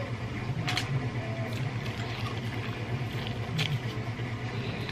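Close-up eating of roast chicken: wet mouth smacks and clicks of chewing and pulling meat off the bone by hand, at irregular intervals, over a steady low hum.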